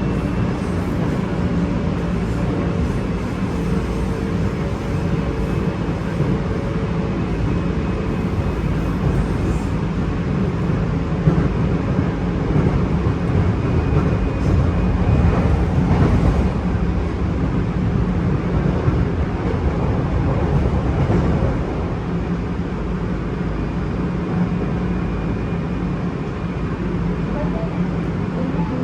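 Train running through the station: a steady low rumble with faint steady tones, growing louder in the middle and easing off again.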